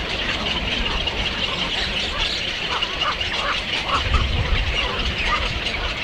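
Birds calling, a run of short calls through the middle, over a steady low rumble and hiss.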